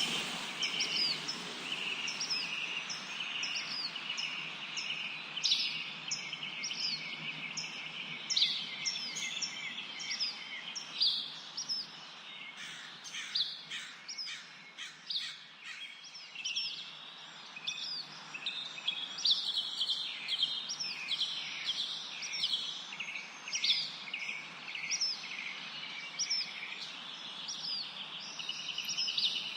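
Many birds chirping and singing together, a dense run of short, quick chirps and little falling notes that keeps going without a break, over a steady background hiss.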